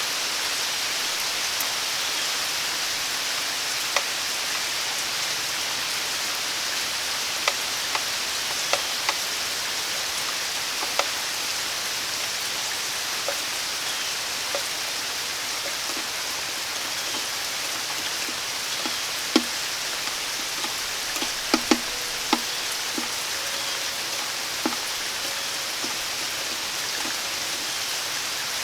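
Steady summer rain falling, an even hiss broken by sharp single drops landing close by, with a cluster of them about two-thirds of the way through.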